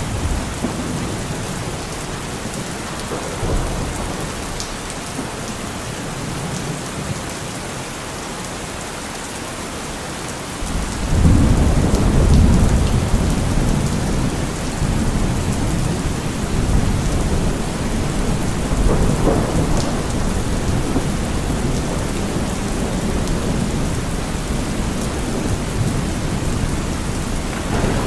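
Steady heavy rain with thunder. A deep rumble of thunder swells up suddenly about a third of the way in and keeps rolling, with another swell later.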